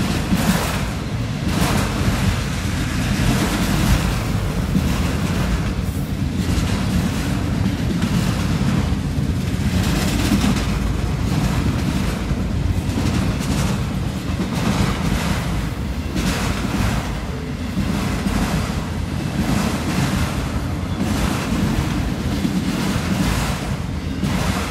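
A freight train of autorack cars rolling past: a steady low rumble of steel wheels on the rails, with irregular brief surges and wind on the microphone.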